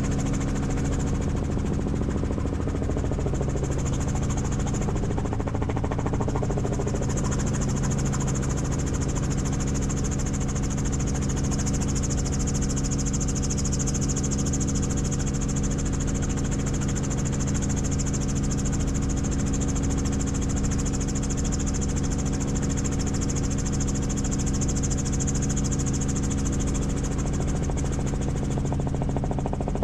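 Helicopter in flight: the steady drone of its engine and rotor, with a high turbine whine above it that grows stronger after about seven seconds.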